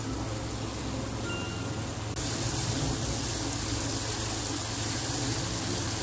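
Ground chili-shallot spice paste sizzling as it fries in oil in a wok, stirred with a wooden spatula. The sizzle gets suddenly louder about two seconds in.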